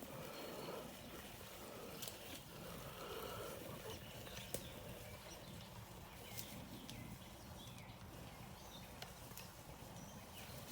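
Traxxas TRX-4 RC crawler working along a dirt trail: faint crunching of its tyres over dirt and rocks with a few scattered sharp clicks, over a low outdoor rumble.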